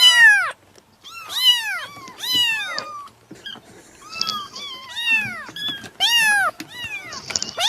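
A kitten meowing over and over in short, high-pitched meows, one about every second.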